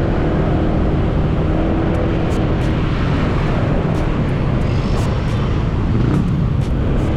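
Wind rushing over a camera's built-in microphone on a moving motorcycle, a steady low rumble, with the motorcycle's engine running beneath it.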